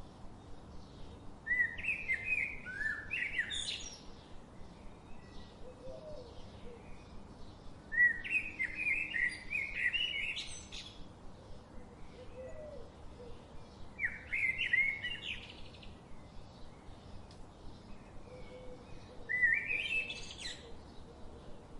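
Birdsong: a warbling song phrase of two to three seconds repeated four times, about every six seconds, with fainter quick chirping between the phrases.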